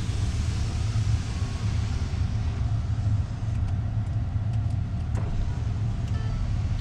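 Vehicle engine running steadily, a low even rumble, with a few faint ticks over it.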